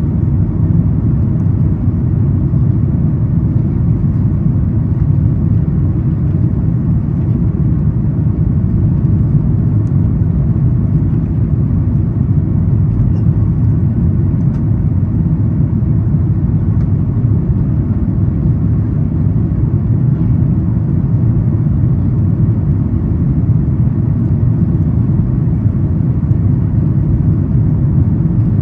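Steady low rumble inside the cabin of a Boeing 737 MAX 8 climbing after takeoff: its CFM LEAP-1B engines at climb thrust together with airflow over the fuselage.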